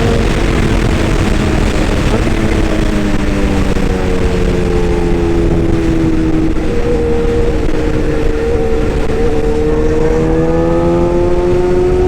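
Excavator engine running steadily, its pitch slowly dropping and rising again as the load changes.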